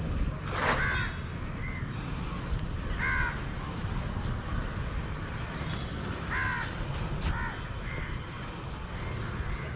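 Several short, harsh bird calls, spaced a few seconds apart, over a steady low rumble.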